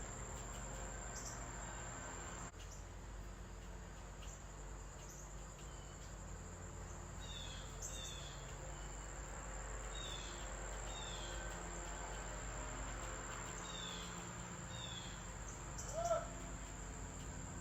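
Quiet background with a steady high-pitched whine, a few faint short bird chirps in pairs, and one brief louder call near the end; no woodpecker tapping stands out.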